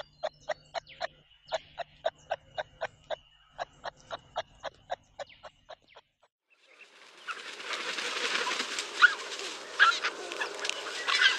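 Bird calls: a run of sharp, evenly spaced clicking notes, about four a second. About six seconds in they stop and give way to a busy, noisy chatter of many chirps.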